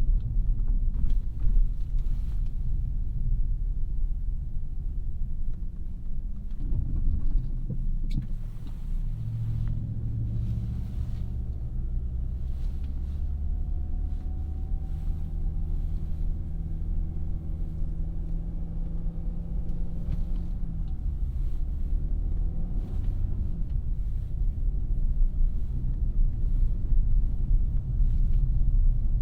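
2017 Audi A3's 2.0-litre turbocharged four-cylinder engine and road noise while driving: a steady low rumble, with the engine note rising about a third of the way in, holding, then falling and rising again near the end.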